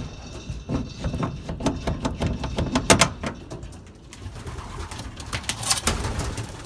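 Young racing pigeons cooing in their loft, mixed with a run of sharp clicks and rustles from the birds or their surroundings, loudest about three seconds in and again near six seconds.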